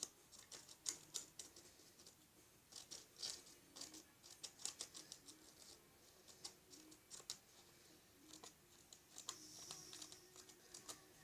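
Scissors making small snips in a folded paper airplane, a faint scatter of short, sharp clicks and paper rustles in irregular clusters.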